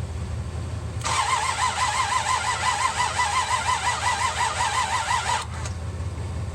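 Starter motor cranking the 1966 Buick Riviera GS's V8 for about four seconds without it firing. The whine rises and falls about four times a second, then cuts off abruptly. The car has a crank-no-start fault.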